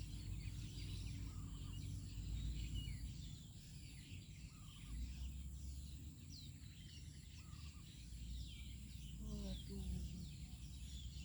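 Outdoor pondside ambience: many small birds chirping continuously, over a steady high-pitched hum and a low rumble.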